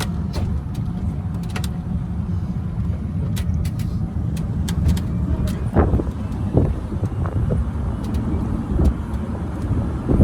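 Steady low rumble of a motor vehicle on the move, with scattered light ticks and rattles and a few short knocks about six seconds in.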